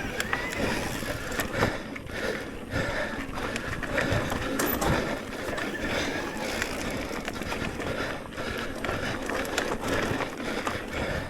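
Electric mountain bike riding along a dirt trail: steady rushing of tyres and wind with frequent knocks and rattles from the bike over bumps.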